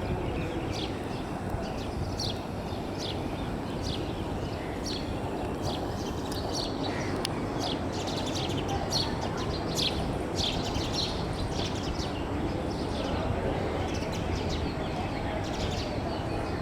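Small birds chirping, short sharp calls repeating about once or twice a second, over a steady background of outdoor noise.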